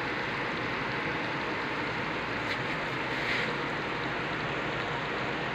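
Onion-tomato masala with green chillies frying in oil in a pot: a steady sizzle.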